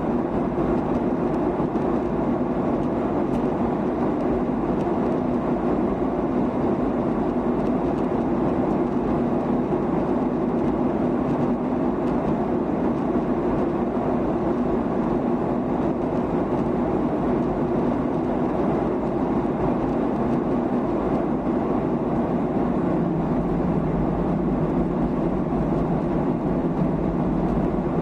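Steady cabin drone of a Boeing 737-800 in flight: engine and airflow noise heard from inside the passenger cabin, even and unchanging.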